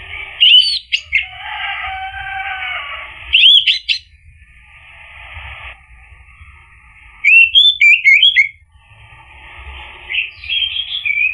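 Orange-headed thrush song: loud, clear whistled phrases in short bursts every few seconds, between softer scratchy twittering, over a faint low rumble.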